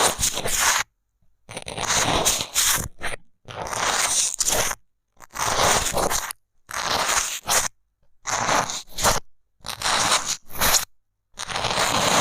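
A bamboo stick scraping and crunching against the microphone in about ten short strokes, each a second or less, with dead silence between them.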